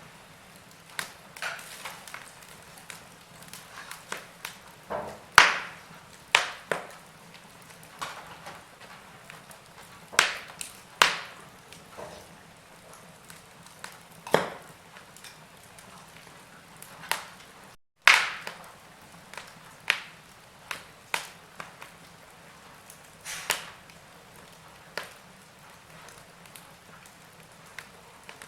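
Wood fire burning in a fireplace, crackling with irregular sharp pops and snaps over a faint steady hiss. The sound drops out to silence for an instant about two-thirds of the way through.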